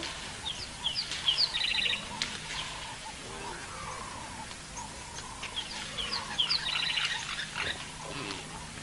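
Wild birds calling: a phrase of short, high, falling chirps that ends in a fast rattling trill, given twice about five seconds apart. A faint steady low hum runs underneath.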